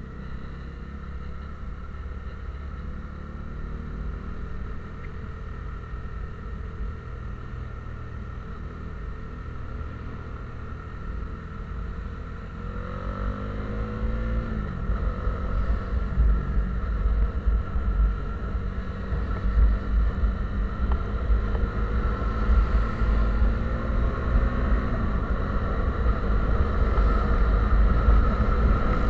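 A vehicle on the move, its engine running. About halfway through the engine pitch climbs and then drops, as at a gear change, and from then on a low rumble of wind and road noise grows louder.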